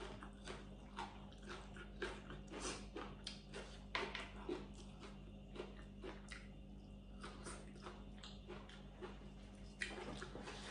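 Close-up eating sounds of a person chewing spicy long bean salad: irregular crunches and wet mouth clicks, several a second.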